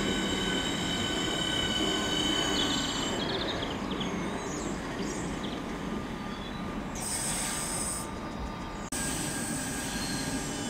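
Southeastern Class 465 Networker electric train drawing into a station platform. Its running rumble is steady, with a high-pitched squeal of several held tones that stops about three seconds in.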